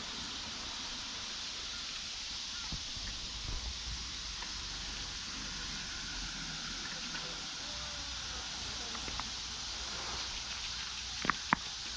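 A steady, even hiss of outdoor noise, with two sharp clicks in quick succession about a second before the end.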